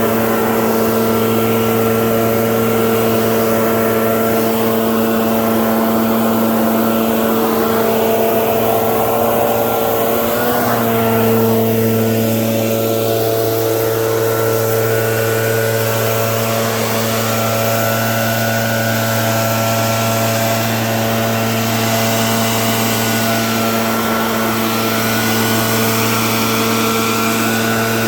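Small engine running steadily at a constant high speed, with a slight dip in pitch about ten seconds in.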